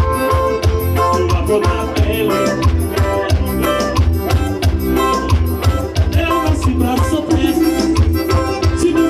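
Forró music from a band playing an instrumental passage, with sustained melodic notes over a steady bass and percussion beat.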